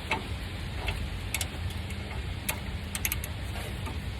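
Irregular sharp metallic clicks from a ratchet being fitted to a slotted O2-sensor socket and worked to loosen the oxygen sensor, over a steady low rumble.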